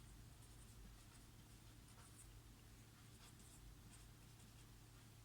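Near silence with faint, intermittent pen scratching: someone writing by hand. A steady low hum runs underneath.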